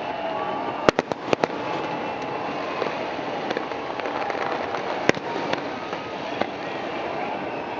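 Fireworks going off: a quick cluster of sharp bangs about a second in and another single loud bang about five seconds in, with smaller pops scattered between, over a steady rushing background noise.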